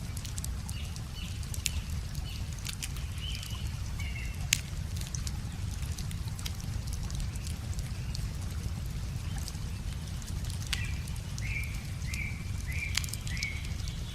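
Wood bonfire crackling with scattered sharp pops, one louder than the rest, over a steady low rush of a river. A bird calls a quick series of short chirps, twice: near the start and again about two-thirds of the way through.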